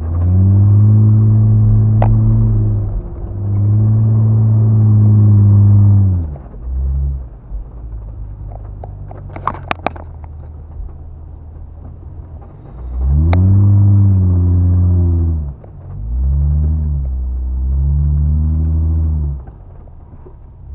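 Off-road truck engine revving in repeated long surges, each rising and then falling in pitch, with a lower rumble between them, as the truck works through desert sand. A few sharp clicks come about ten seconds in.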